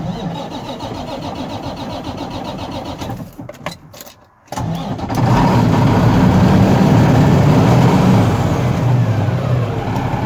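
1995 Mack truck's diesel engine cold-starting: the starter cranks for about three seconds, stops with a few coughs, then the engine catches about five seconds in and runs loud and fast, easing slightly toward idle near the end.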